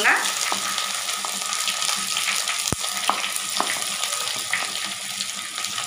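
Chopped shallots frying in hot oil with dried chillies and garlic, a steady sizzle. A few light knocks sound over it, the loudest about two and a half seconds in.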